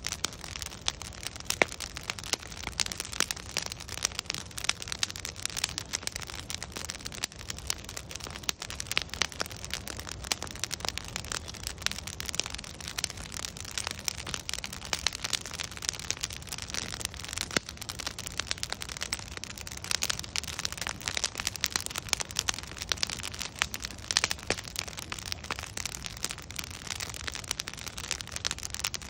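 Wood fire burning with constant, irregular crackling and popping of logs over a steady hiss, several pops a second.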